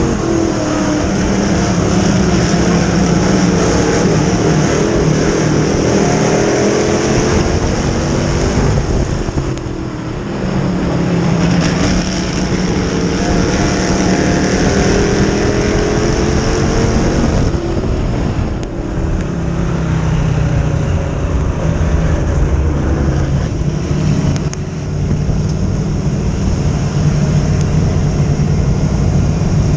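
Dirt-track modified race cars running on the track, their engines rising and falling in pitch as they rev and back off, with brief dips in loudness a few times.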